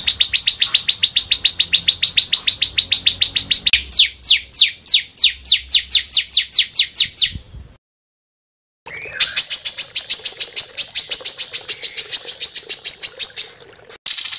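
Small songbird giving fast, harsh repeated chirps, about ten a second, which change to slower falling notes about four a second before stopping abruptly. After a second of silence a higher, rapid series of notes starts up.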